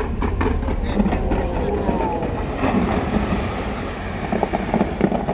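Fireworks popping and crackling in quick succession over a steady low rumble, with crowd voices mixed in. The pops grow denser near the end.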